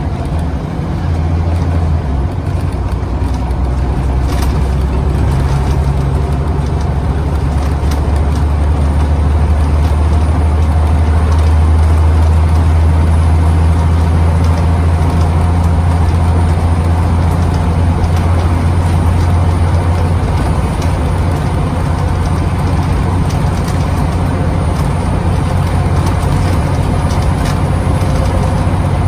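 Engine of a Scania CN94UB OmniCity single-decker bus, heard from on board, pulling steadily under heavy load as the bus builds up to its top speed, with tyre and road noise. The engine eases off about two-thirds of the way through.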